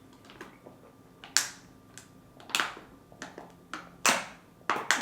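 Close-up eating mouth sounds: a handful of sharp, wet clicks and smacks, spaced about a second apart, from chewing.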